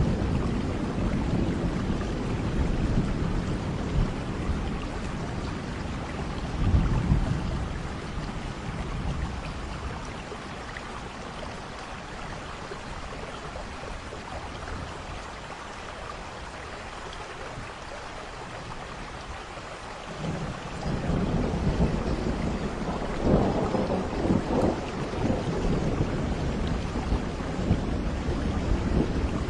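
Steady rain with rolling thunder. Low rumbles of thunder sound at the start and again about seven seconds in, then rain alone for a quieter stretch in the middle, and thunder rolls in again about two-thirds of the way through.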